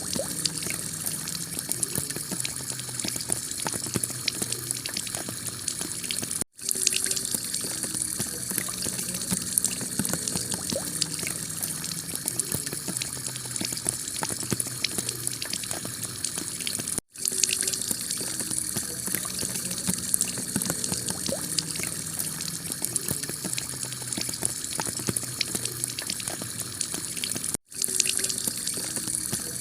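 Heavy rain falling on a clay-tile roof: a steady hiss of water with many sharp drop hits. It cuts out for an instant three times, about ten seconds apart.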